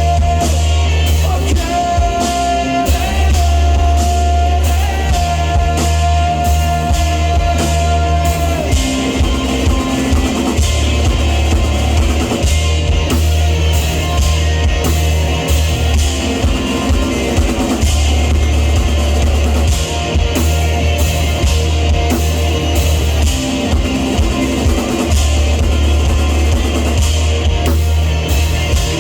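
A live rock band playing: electric guitar, bass and a drum kit with busy cymbals. A high sustained note rings for the first eight seconds or so, then stops, and the band plays on.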